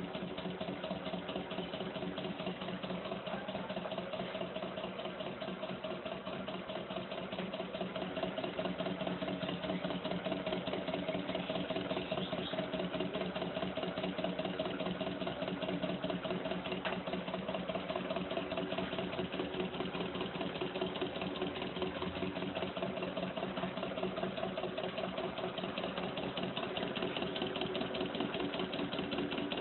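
Stirling engine running steadily, with a fast, even mechanical clatter over a steady hum.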